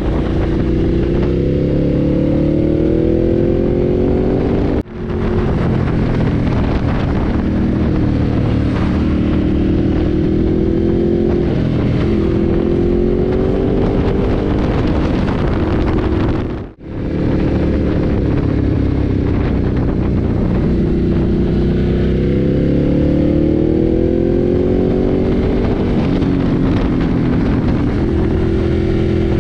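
Ducati Multistrada 1200's L-twin engine running under way, its pitch rising repeatedly as it accelerates and dropping back between pulls. The sound cuts out briefly twice, about 5 and 17 seconds in.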